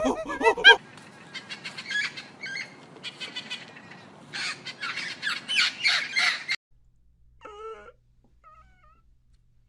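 A flock of birds squawking and chirping in rapid, harsh calls. About six and a half seconds in it cuts off suddenly, and near the end two short, wavering meow-like calls follow, of the kind a cat makes.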